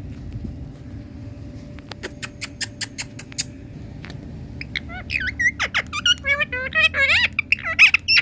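Indian ringneck parrot vocalising. A quick series of sharp, high clicks about two seconds in, then from about five seconds a run of wavering, warbling chatter and whistles that rises and falls in pitch and grows louder toward the end.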